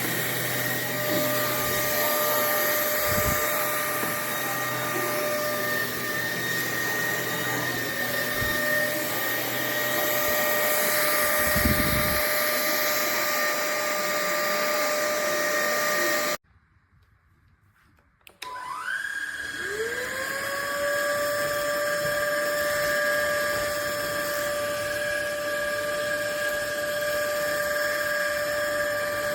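Cordless stick vacuum cleaner's motor running with a steady whine and a few low bumps. It is switched off abruptly a little past halfway, and after about two seconds it is switched back on, the whine rising as the motor spools up and then holding steady.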